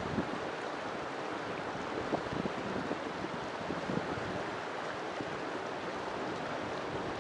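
River water flowing and splashing steadily, with small irregular gurgles and splashes.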